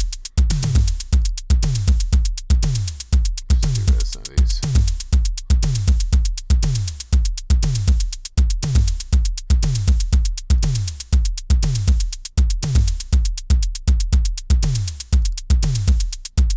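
Programmed drum-machine loop playing back in Soundtrap, repeating over and over. Each kick drum hit drops in pitch, under a steady run of sixteenth-note closed hi-hats.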